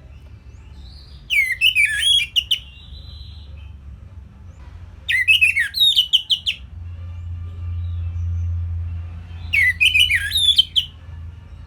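Orange-headed thrush singing three short phrases of quick, sliding whistled notes, a few seconds apart. A low steady hum runs underneath and swells between the second and third phrases.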